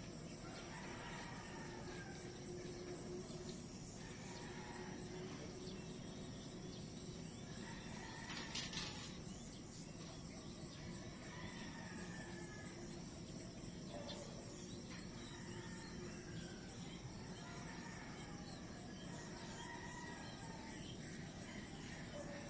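Outdoor nature ambience: crickets chirring steadily, with short bird calls now and then. A brief louder noise about eight and a half seconds in.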